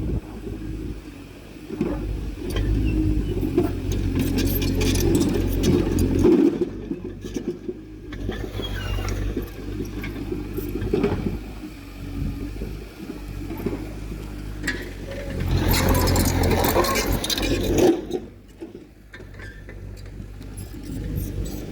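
Diesel engine of heavy earthmoving machinery running steadily, with bursts of metallic clanking and scraping about four to six seconds in and again from about fifteen to eighteen seconds in.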